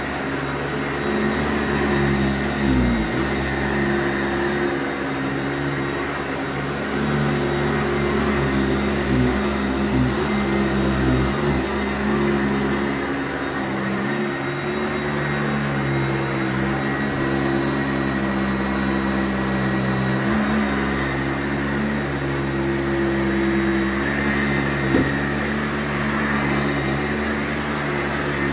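Sanitaire SC684G upright vacuum cleaner running steadily on carpet: a motor hum under a rushing airflow hiss, with small brief shifts in pitch.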